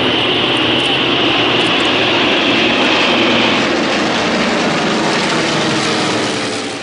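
Airplane engine noise, loud and steady, from an aircraft flying at an airshow. A high whine in the noise fades out about three and a half seconds in.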